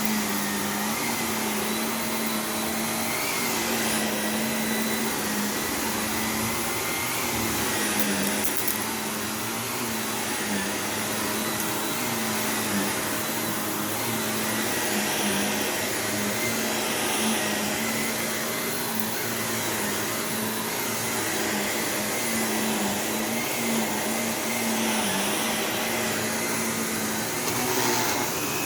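Shark Navigator Lift-Away NV351 upright vacuum cleaner running steadily while vacuuming the floor, its motor hum dipping slightly in pitch now and then as it is pushed and pulled, with a few faint clicks.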